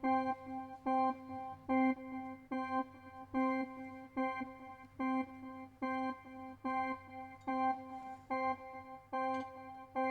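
Keyboard music: a single organ-like note struck over and over at a steady pulse, roughly one every 0.8 seconds, over a faint low hum.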